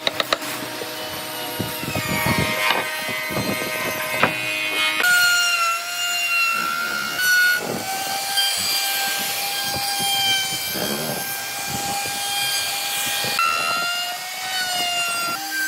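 Electric woodworking power tool running and cutting into wood: a steady motor whine that shifts a little in pitch under load, with rasping strokes and a few sharp clicks at the start.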